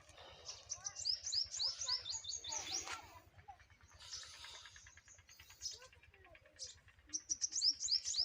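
A small bird's rapid runs of rising high chirps, about five a second: one run in the first three seconds, another near the end.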